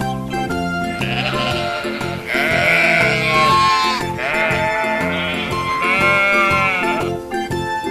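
Sheep bleating several times, each bleat long and wavering, over children's background music with a steady beat.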